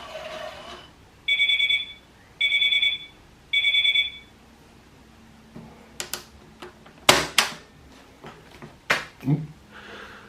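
Toy Klein Miele washing machine sounding three electronic beeps, about a second apart, the end-of-cycle signal. Then a run of sharp plastic clicks and knocks, the loudest about seven seconds in.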